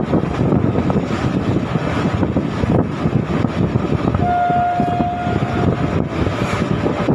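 Passenger train running at speed, heard from aboard a coach: a loud, steady rumble of wheels on rails and rushing air. About four seconds in, a single steady tone sounds for about a second and a half.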